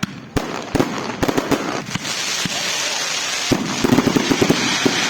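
A large wood bonfire burning, with irregular sharp pops and cracks and a steady rushing hiss of flame that swells about two seconds in.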